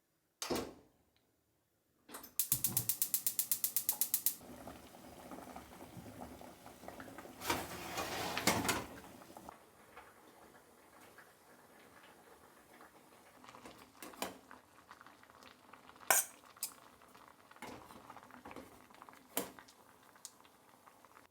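Household handling sounds: a single knock, then a fast run of mechanical clicks, about a dozen a second for two seconds, like a ratchet or an igniter. After that come clattering of dishes and utensils and scattered sharp knocks.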